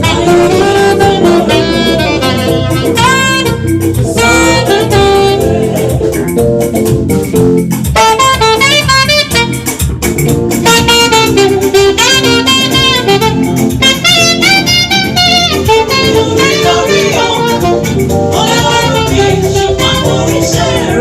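Saxophone playing a wavering melody over a live band accompaniment, in a jazz-tinged gospel style.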